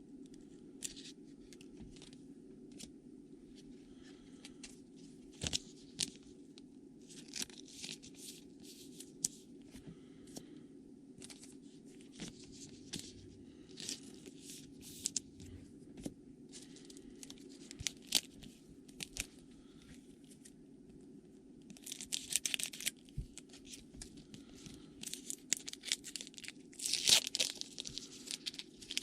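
Trading card pack wrappers crinkling and tearing open, with cards handled and flicked through in short rustles. Louder bouts of crinkling come a little over two-thirds in and near the end, over a steady low hum.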